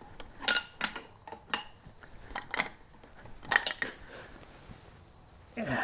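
Steel tools and parts clinking and tapping against each other, a string of sharp metallic knocks at uneven intervals, each ringing briefly.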